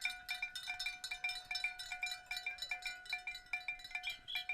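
Rapid metallic tinkling: many quick, overlapping strikes ringing at a few fixed pitches, like small bells or chimes.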